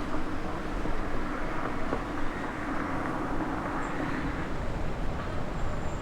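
Distant jet aircraft heard as a steady low rumble, with a faint drone running through it.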